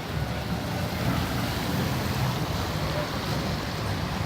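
Steady low rumble of idling fire apparatus engines, with wind noise on the microphone.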